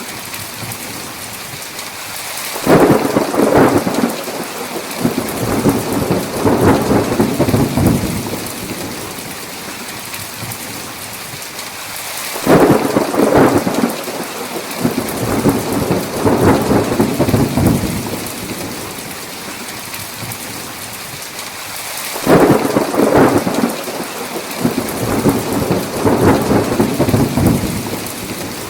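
Heavy rain falling steadily, with three peals of thunder about ten seconds apart, each breaking suddenly and rumbling on for several seconds.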